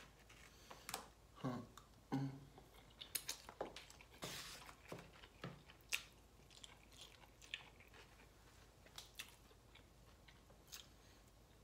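Close-up eating sounds: a person biting and chewing takeout lo mein noodles and sauced chicken, with many small irregular wet mouth clicks, busiest in the first half.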